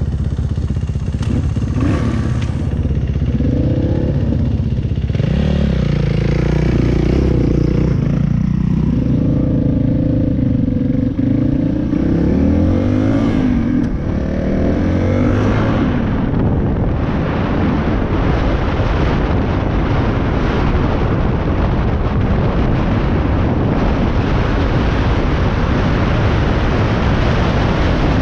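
Dirt bike engine revving up and down as the bike rides off along the trail. From about seventeen seconds in, wind rushing over the microphone mostly covers the engine.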